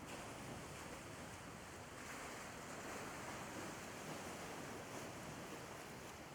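Sea waves washing on the shore as a steady, soft rush of surf, swelling slightly a couple of seconds in, with some wind on the microphone.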